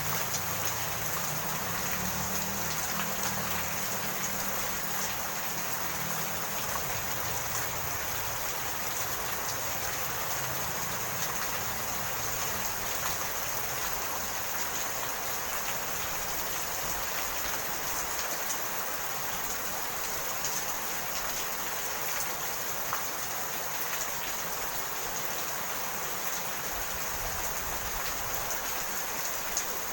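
Steady rainfall, an even hiss of rain with scattered drop ticks. A low rumble fades out in the first few seconds.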